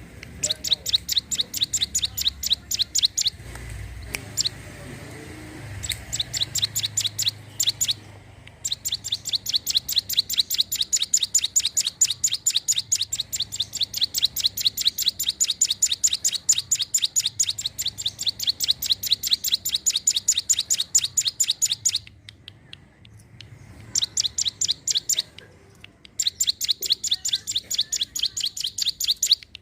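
Ciblek gunung, a prinia, singing in rapid chattering trills: sharp high notes repeated about eight times a second in long bouts, broken by a few short pauses.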